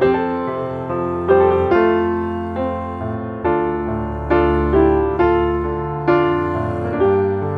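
Background music: a slow piano piece, chords and single notes struck and left to ring away.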